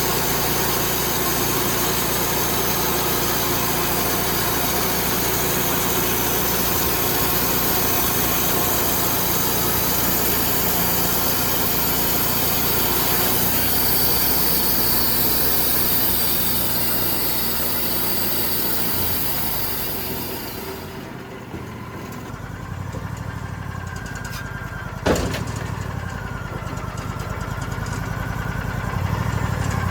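An engine running steadily under a dense, hissing noise, which eases off about two-thirds of the way through to a lower engine sound; a single sharp knock comes a few seconds later.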